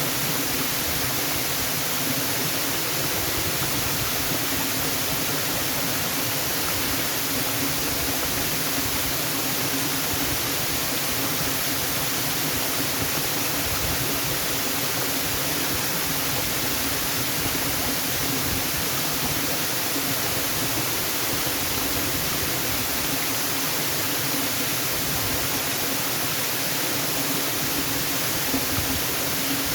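Waterfall: falling water making a steady, even hiss that does not change.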